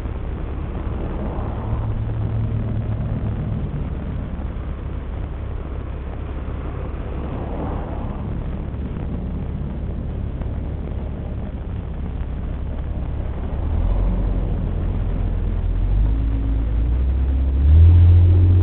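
Nissan Elgrand minivan heard from inside the cabin: a steady low engine rumble at a standstill, then pulling away in the last few seconds, louder, with the engine note rising as it picks up speed.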